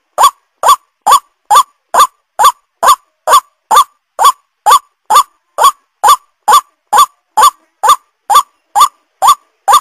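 White-breasted waterhen call played as a bird-lure recording: a long run of short, identical rising notes, a little over two a second, with clean silence between. The run stops right at the end.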